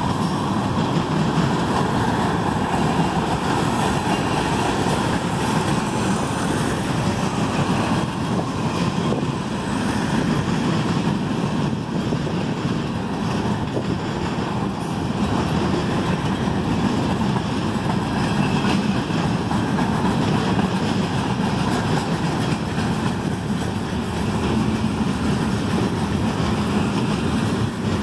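Mixed freight train rolling slowly past, car after car: a steady rumble of steel wheels on the rails.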